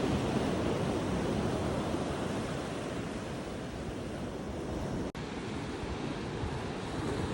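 Ocean surf washing onto the beach, a steady rush, with wind buffeting the microphone. The sound breaks off for an instant about five seconds in.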